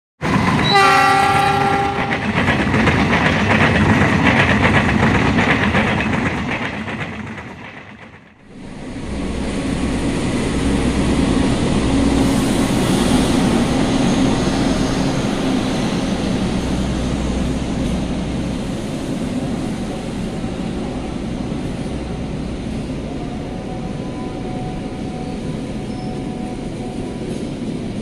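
A diesel locomotive gives a short horn blast as it rolls past loudly, the noise fading away about eight seconds in. Then a CC 206 diesel-electric locomotive hauling Argo Lawu passenger coaches runs through the station with a steady rumble of engine and wheels on rail.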